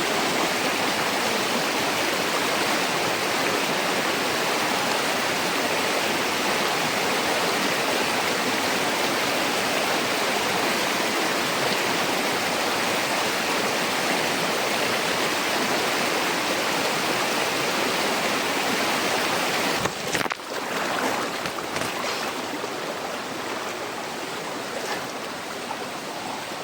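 Rushing water of a fast, rocky river, a steady dense rush. About twenty seconds in it breaks off abruptly and carries on a little quieter.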